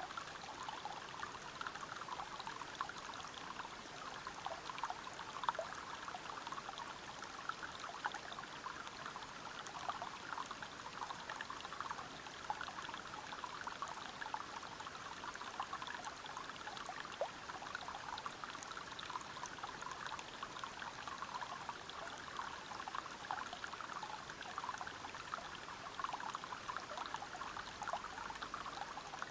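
A small waterfall and a river running over rocks: a steady rush of water, full of small splashes and trickles.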